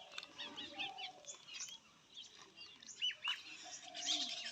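Birds chirping: scattered short, high chirps.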